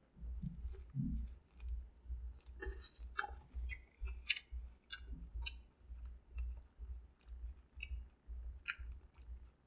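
A person chewing a mouthful of a bacon cheddar slider burger: soft rhythmic chews, about two to three a second, with small wet mouth clicks.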